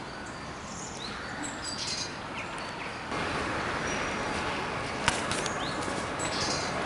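Small birds chirping now and then over a steady outdoor background rush, which grows louder about three seconds in, with one sharp click near the five-second mark.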